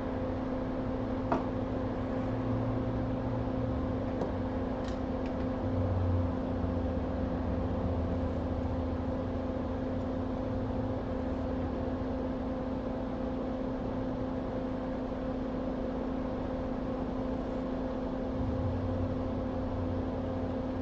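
Steady hum of a small electric blower or fan on a microsoldering bench, such as a hot-air rework station or fume extractor, with a single light click about a second in.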